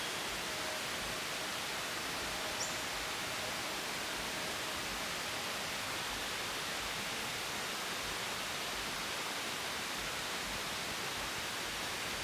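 Steady, even hiss of outdoor ambient noise, with one brief high tick about two and a half seconds in.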